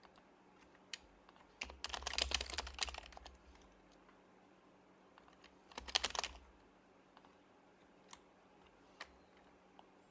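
Typing on an HHKB Professional HYBRID Type-S keyboard, its quieted Topre switches giving soft keystrokes: a quick burst of keys about two seconds in, a shorter burst around six seconds, and a few single clicks in between.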